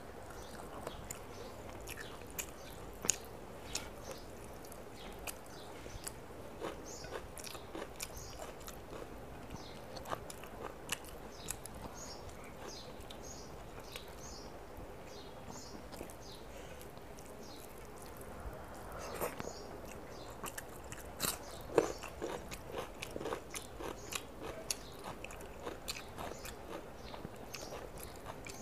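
Close-miked eating sounds: chewing, lip smacks and wet mouth clicks as rice and chicken curry are eaten by hand, with soft squishing as fingers mix rice in the plate. The sounds come thicker and louder about two-thirds of the way through.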